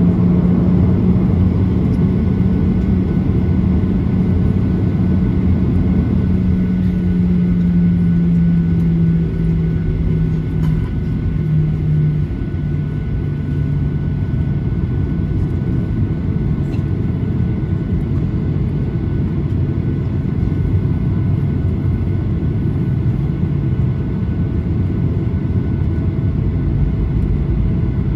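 Steady low rumble inside a Boeing 737-800's passenger cabin on the ground, with a strong low hum that steps down slightly in pitch and weakens about ten to twelve seconds in.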